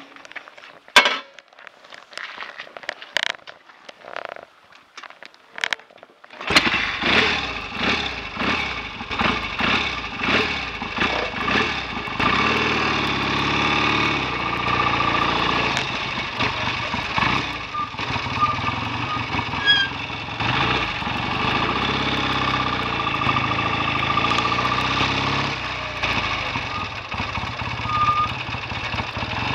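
A few scattered clicks and knocks, then about six seconds in a BSA A65 650 parallel-twin motorcycle engine starts. It is blipped unevenly for several seconds, then settles into a steady run.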